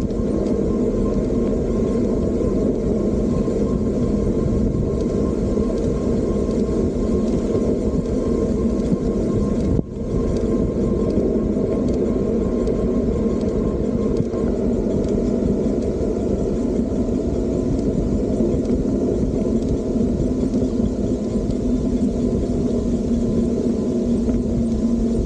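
Steady wind and road rumble from riding an electric bike, continuous and even, with a brief drop in the sound about ten seconds in.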